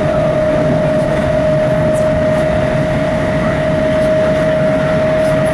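Class 455 electric multiple unit heard from inside a passenger coach while running at speed: steady rumble of the wheels on the track with a steady whine held throughout.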